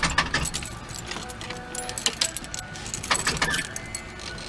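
A key ring jangling, with a run of irregular sharp metallic clicks and rattles; no engine running.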